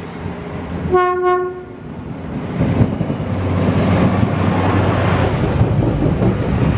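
A passenger train's horn gives one short, steady blast about a second in. The rumble of the train rolling in then builds and stays loud.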